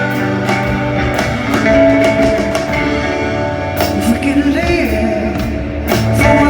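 Live band music with sustained chords and a singing voice.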